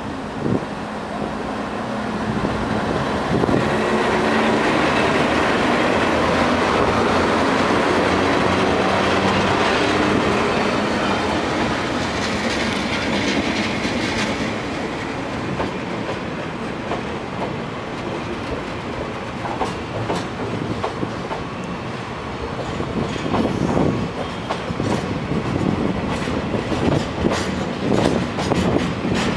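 A freight train hauled by a Taiwan Railway electric locomotive rolling past at an easy pace: a steady running noise with a low hum, then rapid clicking of the wagon wheels over the rail joints near the end.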